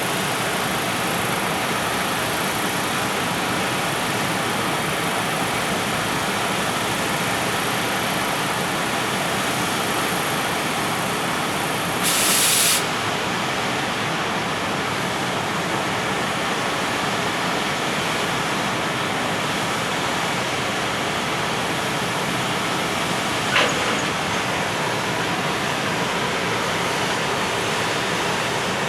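Container freight train rolling past, a steady rushing rumble of wheels on rail. A short, sharp hiss comes about twelve seconds in, and a single click near twenty-four seconds.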